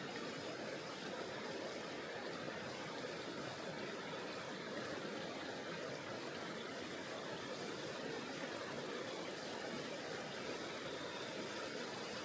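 Steady rush of flowing river water, an even noise without breaks or separate events.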